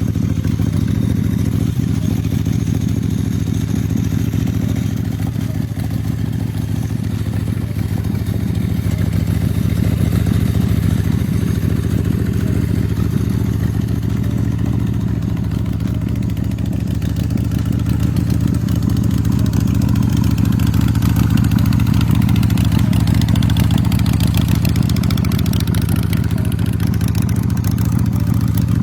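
A motorcycle's V-twin engine running steadily at one constant speed, most likely the 2005 American IronHorse Texas Chopper's 1,700 cc V-twin; it gets slightly louder in the second half.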